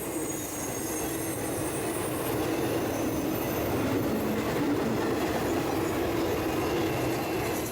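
Freight train rolling past, a steady rumble of wheels on rail that builds to its loudest about halfway through, with a thin high wheel squeal over it.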